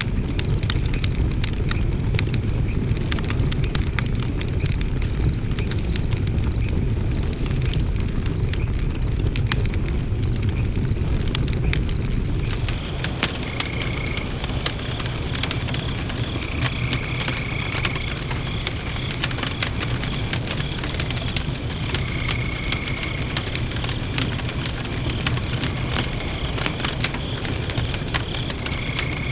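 Wood fire burning in a fire stand, crackling with many sharp pops over a steady low rumble. A high, evenly pulsing chirp runs through it.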